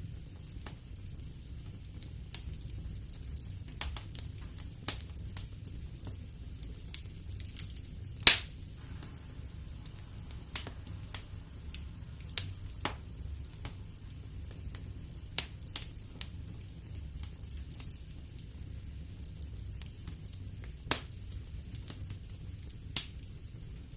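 Wood fire crackling in a fireplace: scattered sharp pops and snaps over a steady low rumble of burning, with one loud pop about eight seconds in.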